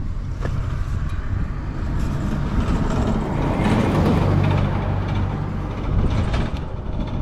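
Yamaha RZ250R's two-stroke parallel-twin engine running through aftermarket expansion chambers, revved up to a peak about halfway through and settling back. It runs without any abnormal noise.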